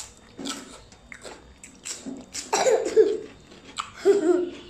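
Close-up eating sounds: a bite into food, then chewing, with short crisp clicks. About two and a half seconds in and again near the end come short vocal sounds, a cough or brief voice.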